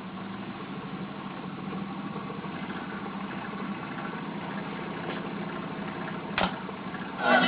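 Small walking-beam Stirling engine running steadily with a low mechanical hum. There is one sharp click about six seconds in, and music starts right at the end.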